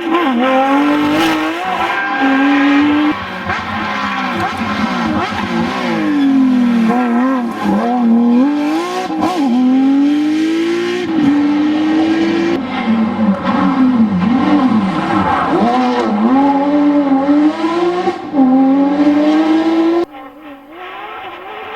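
Porsche 911 GT3 RS rally car's flat-six engine at high revs, climbing through the gears with sharp drops at each upshift and falling sweeps as it slows. The sound cuts down abruptly near the end.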